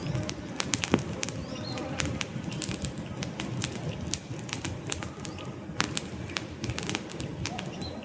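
Wood fire crackling, with many sharp irregular pops and snaps from the burning logs over a steady low rumble of flame.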